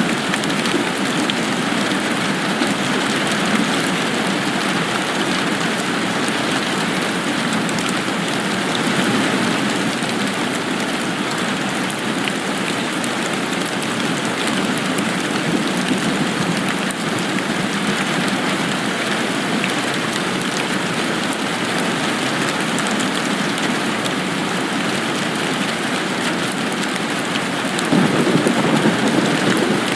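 Steady rain falling, a dense even hiss of drops, with a louder low swell near the end.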